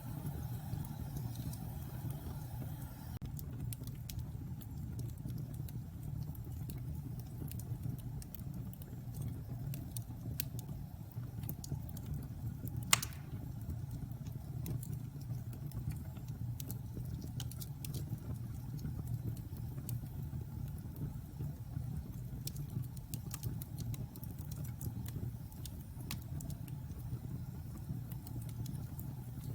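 Wood fire burning in a fireplace: a steady low roar with scattered light crackles and one loud, sharp pop about halfway through.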